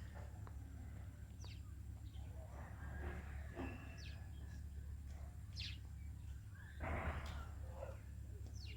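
Small birds chirping: a few short, high, falling chirps a second or two apart, over a steady low hum, with a brief rustling noise about seven seconds in.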